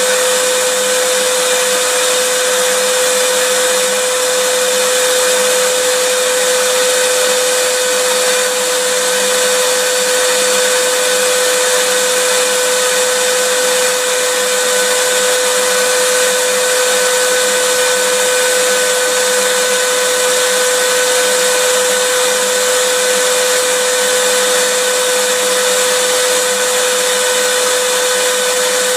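Vacuum cleaner running steadily, a constant motor whine with a rushing hiss of air that does not change.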